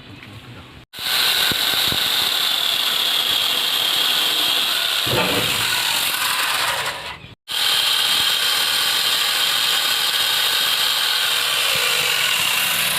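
Electric angle grinder fitted with a chainsaw adapter running at speed: a high steady motor whine with chain rattle. It starts abruptly about a second in, turns rougher and lower briefly about five seconds in, stops sharply for a moment around seven and a half seconds, then runs on.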